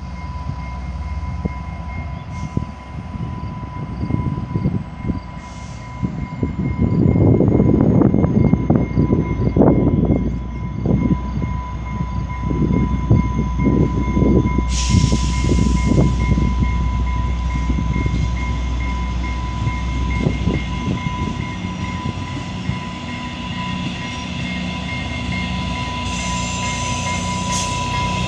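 An exo commuter train with its locomotive approaching and drawing alongside. There is heavy, uneven low rumbling through the middle, a sharp rise of hissing about fifteen seconds in, and the locomotive's engine grows clearer near the end. A thin steady high tone sounds throughout.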